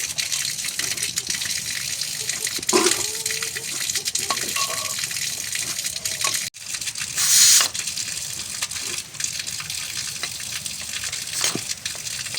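Water gushing and splashing steadily, with a few short knocks. It breaks off sharply about six and a half seconds in and comes back with a louder surge of water.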